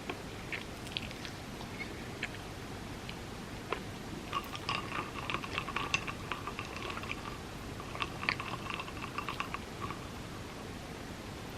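Close-miked chewing: a person eating, with small wet mouth clicks in two bouts, the second shorter, over a steady faint hiss.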